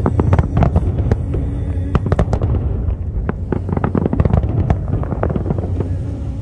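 Fireworks bursting in rapid, irregular succession: many sharp bangs and crackles over a continuous low rumble of the display.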